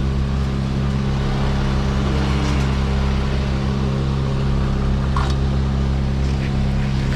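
Engine running steadily at one even speed, with no revving, as from machinery idling at a tree-removal job.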